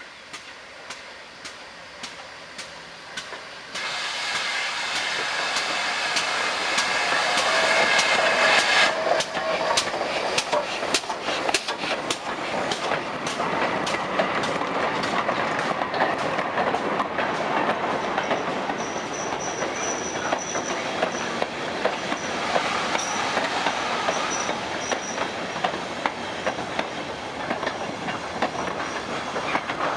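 A train passing close on the rails, its wheels clacking rapidly over rail joints. It gets much louder with a rush about four seconds in, and a thin high wheel squeal comes and goes in the second half.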